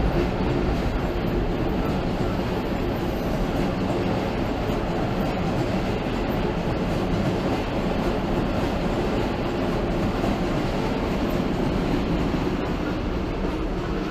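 Passing train: a steady rumble of wheels on the track that eases off slightly near the end.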